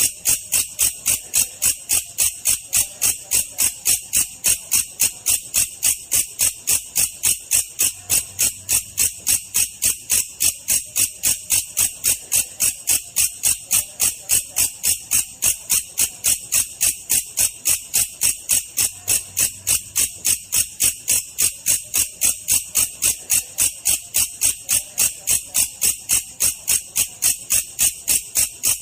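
Belalang kecek (an Indonesian katydid) calling: a steady, even train of sharp, high chirps, about two to three a second, at a slow pace.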